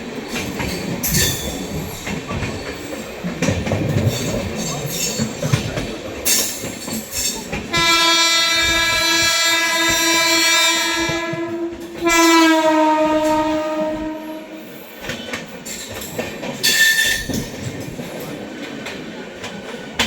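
Express train running at speed, its wheels clicking over rail joints, with two long horn blasts about eight and twelve seconds in; the first lasts about three seconds, the second is shorter and sags in pitch as it ends.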